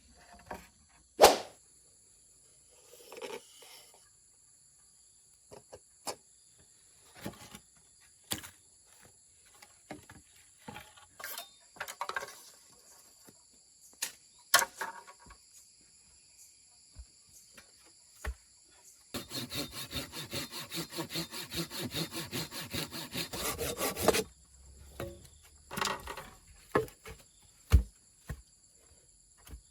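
Wood being sawn by hand: a run of quick back-and-forth saw strokes lasting about five seconds past the middle. Before and after it come scattered sharp knocks and clicks of wood being handled.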